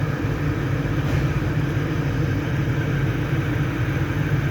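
Steady hum of an engine running at idle, with no change in speed. It cannot be the Ranger's own engine, which does not run because its timing belt teeth are stripped.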